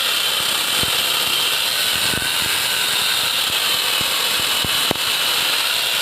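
Angle grinder fitted with a chainsaw attachment running steadily at speed: a loud high hiss and whine from the spinning chain, with a few sharp ticks.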